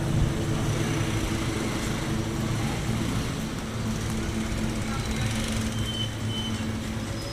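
Street noise with a vehicle engine running steadily close by, under a haze of traffic sound and background voices.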